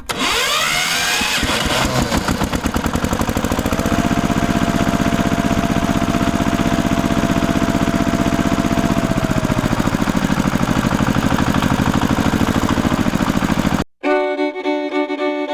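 Small engine starting up and revving, then running fast and steady with a rapid pulsing beat, until it cuts off abruptly near the end. Fiddle and banjo music follows.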